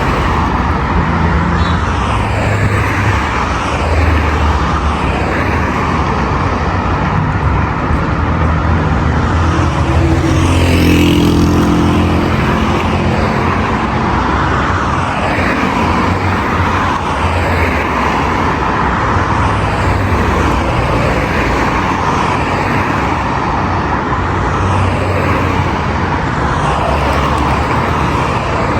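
Steady heavy road traffic: cars running past in a continuous rumble and tyre noise, with one louder vehicle passing about ten seconds in.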